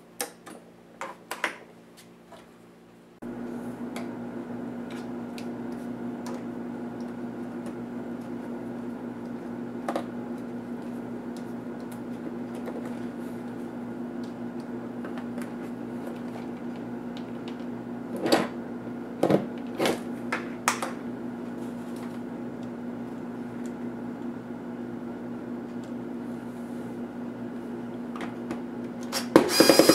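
Light clicks and taps of small parts being handled. About three seconds in, a steady machine hum starts and holds, with a few more sharp clicks later on.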